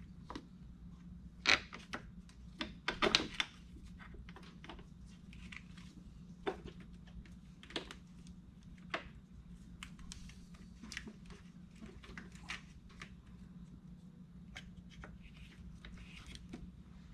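Scattered clicks and knocks of hand tools and cable ends as truck battery terminals are disconnected before welding, the sharpest knocks a couple of seconds apart near the start, then lighter irregular clicks, over a steady low hum.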